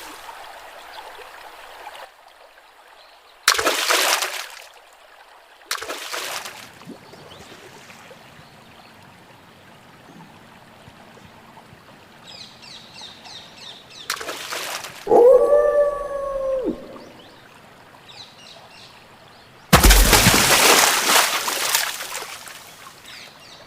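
Water splashing in several separate loud bursts, the longest about two seconds near the end. In the middle comes a single howl from a wolf, about a second and a half long, rising, holding and then falling. Faint bird chirps sound between the splashes.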